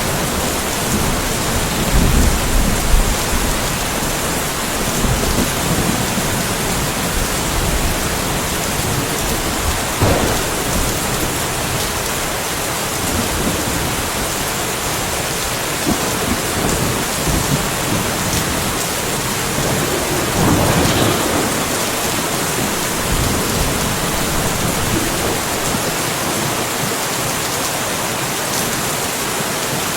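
Steady rainfall with a light thunderstorm: thunder rumbles low during the first few seconds under the even hiss of the rain.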